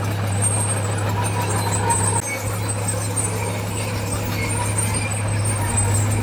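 Heavy diesel engine of earthmoving machinery running at a steady drone, with a brief dip about two seconds in.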